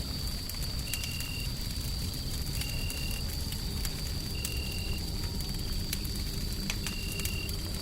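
Wood fire crackling, with scattered sharp pops, over a steady, rumbling bed of white noise. A thin high tone holds throughout, and four short high beeps repeat about every two seconds.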